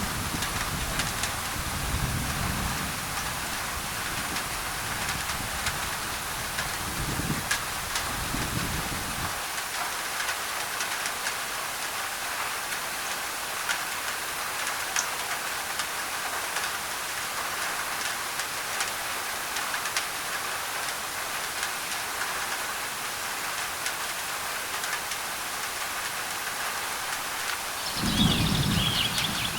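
Steady heavy rain pattering on a thin tin roof, with many separate drop ticks. Low thunder rumbles through the first nine seconds or so and swells again near the end, when a bird chirps briefly.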